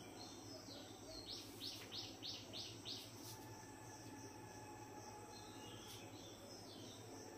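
A faint bird call: a quick run of about six falling chirps, evenly spaced, starting a little over a second in, with a few fainter chirps later, over a low steady hum.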